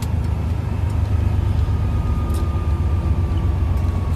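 Semi truck's diesel engine and road noise heard inside the cab: a steady low drone, with a faint high whine slowly falling in pitch.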